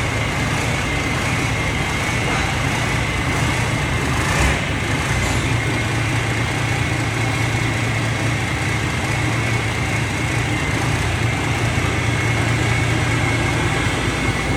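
Forage-corn harvesting machine running steadily: a low engine hum with a steady high whine over it, and a single knock about four seconds in.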